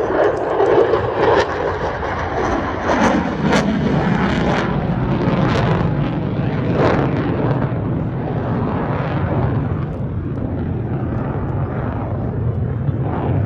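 Jet noise of an F-22 Raptor's two turbofan engines during a demonstration pass, loud and steady, with sharp crackles in the middle.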